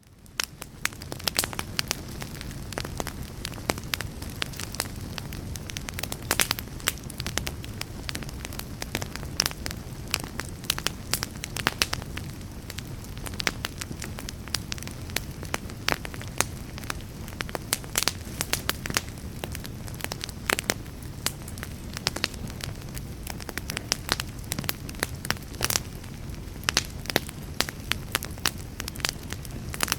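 Wood fire crackling in a fireplace: dense, irregular sharp pops and snaps over a steady low rush. It swells up from silence in the first second.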